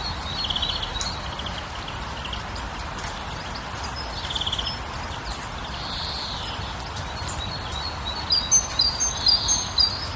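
Small birds chirping, with short high trills a couple of times and a quick run of chirps near the end, over a steady background hiss of outdoor ambience.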